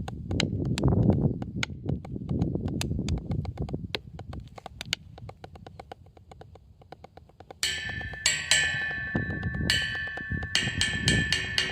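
Hand-played percussion: quick light tapping strikes over a low rumble, then from about eight seconds in, ringing pitched strikes repeating in a steady rhythm.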